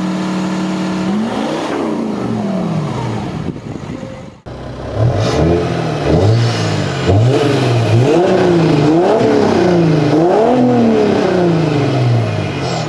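Diesel engine held at steady high revs, then dropping back. After a sudden cut, a diesel engine is revved repeatedly, the pitch rising and falling about five times.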